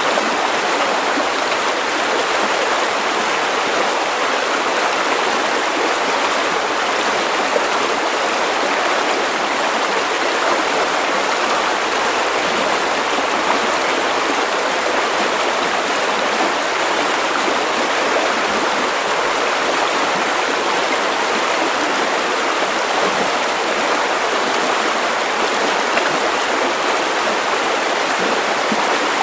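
River water running over stones, a steady, even rushing and burbling with no pauses or changes.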